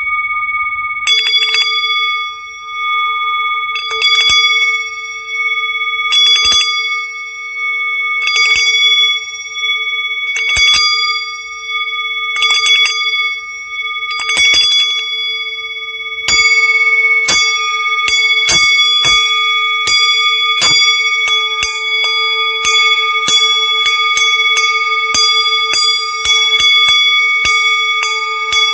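Metal singing bowls ringing with a steady, layered tone, struck about every two seconds. About halfway through the strikes quicken to roughly two a second and a few more tones join in.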